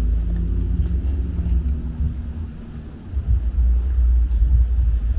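Low rumble of a motor vehicle engine running close by, with a steady hum in the first two seconds. It dips briefly midway, then the rumble comes back.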